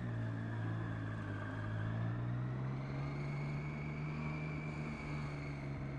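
Triumph Street Triple R's three-cylinder engine on its stock exhaust, running steadily in slow traffic with a steady low hum that barely changes in pitch.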